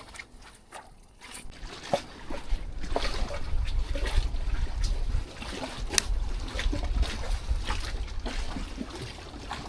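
Water sloshing and splashing under a jetty, with many scattered drips and small splashes. From about two and a half seconds in, wind rumbles on the microphone.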